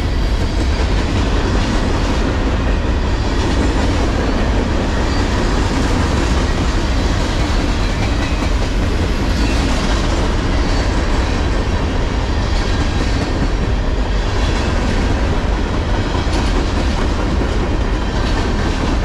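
Freight cars loaded with empty garbage containers rolling past close by: a steady rumble and clatter of steel wheels on the rails, the train slowing down.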